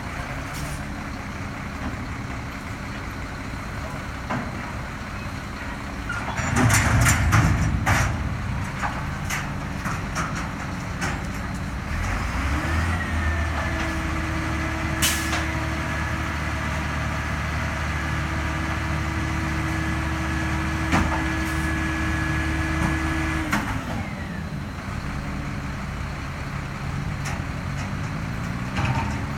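Garbage truck's diesel engine idling, with a loud burst of hiss and metal clanks about six seconds in. About twelve seconds in, the engine speeds up and holds a steady higher speed for about eleven seconds, as it does when driving the truck's hydraulics, then drops back to idle.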